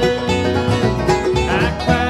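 Bluegrass band playing an instrumental passage: banjo and guitar picking over bass, with a lead line sliding up between notes.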